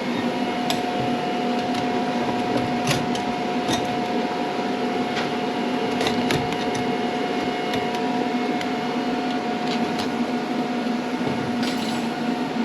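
TIG welder running on a steel seat frame: a steady electrical hum with scattered faint crackles.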